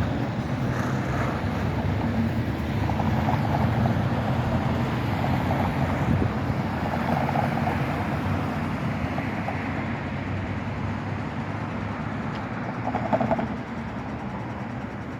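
Zagreb tram running along street track, a steady low rumble of wheels and motor that drops a little about thirteen seconds in.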